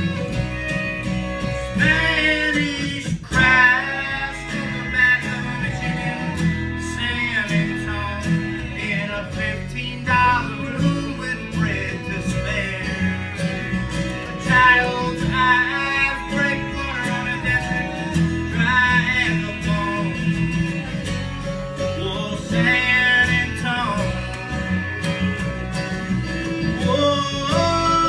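Acoustic folk string band playing live: guitar and bass hold the rhythm under a wavering lead melody line, in an instrumental passage of a country/bluegrass-style song.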